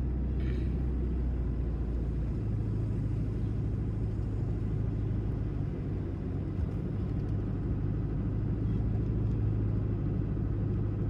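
Steady engine and road rumble of a vehicle being driven, heard from inside the cab; the low drone steps up in pitch about two seconds in.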